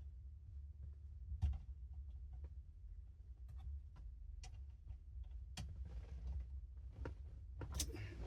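Faint scattered clicks and light knocks of parts being handled while a steering wheel is refitted to its column, with one louder knock about one and a half seconds in and some rustling near the end, over a low steady hum.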